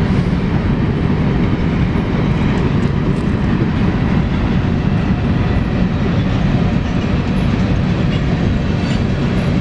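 A long BNSF freight train rolling past close by: a loud, steady rumble of its cars' wheels on the rails.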